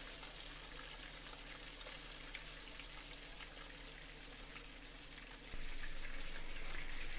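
Breaded cube steaks frying in shallow oil in a skillet: a steady sizzle that grows louder about five and a half seconds in.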